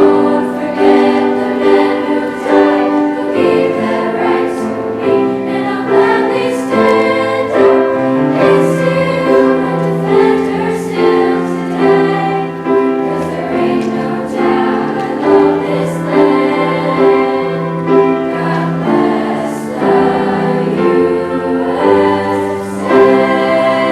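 Choir singing a slow piece in sustained, held notes.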